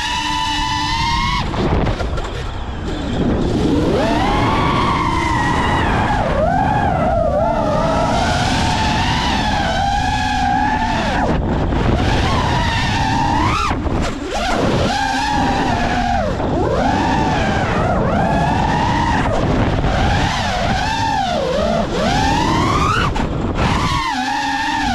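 Brushless motors and propellers of an iFlight Nazgul5 V3 five-inch FPV quadcopter whining, the pitch sweeping up and down sharply with throttle, heard through the onboard camera with wind rumble underneath. The whine drops out briefly a few times where the throttle is chopped, around the middle and near the end.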